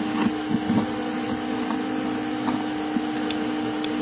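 Steady hum of a vacuum motor running, with a few light knocks in the first second.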